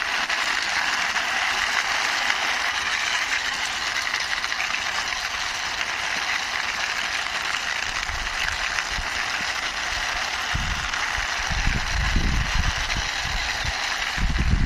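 Toy model Jeep rolling as it is pushed along by hand: a steady gritty whirr from its wheels and gears. Irregular dull bumps join in during the second half.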